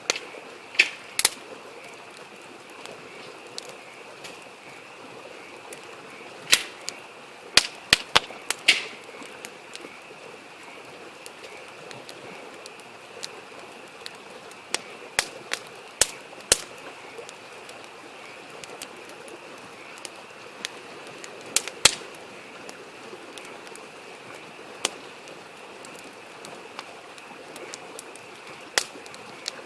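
Wood campfire crackling, with sharp irregular pops, some in quick clusters, over the steady rush of a babbling stream.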